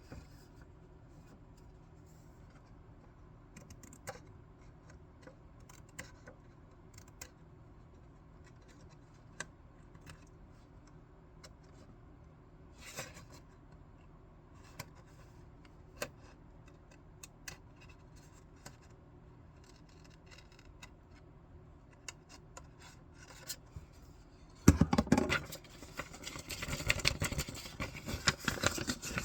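Scissors cutting paper in scattered small snips. Near the end a much louder, denser run of paper crackling and snipping starts.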